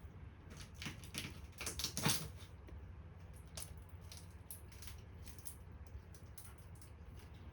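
Irregular light clicks and taps, with one louder knock about two seconds in.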